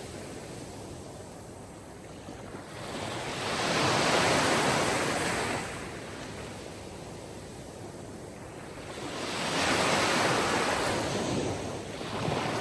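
Sea waves washing onto a shore, each wave swelling and fading away, two full waves about six seconds apart and a third rising near the end.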